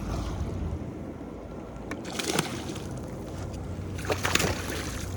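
Water sounds around a kayak: a steady low rumble of wind and water, with two short splashing swishes about two seconds apart, about two seconds in and again near the end.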